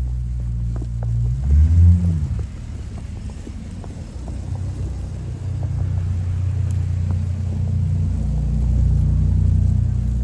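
A motor vehicle's engine running close by, a deep rumble whose pitch rises and falls about two seconds in, then carries on steadily.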